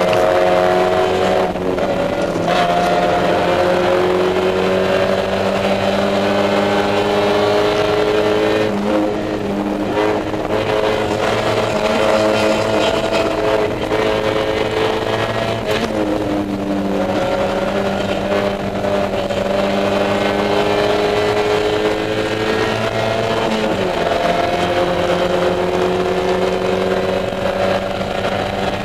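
Mazda Miata race car's four-cylinder engine at racing speed, heard from inside the stripped cabin: the pitch climbs steadily under acceleration and falls back sharply several times.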